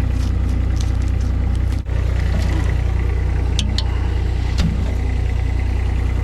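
Small engine of a mini skid steer idling steadily, with a brief break about two seconds in and a couple of sharp clicks a little later.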